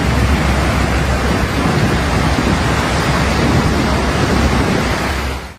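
Heavy storm noise: a loud, steady hiss of heavy rain over a deep rumble. It cuts off suddenly near the end.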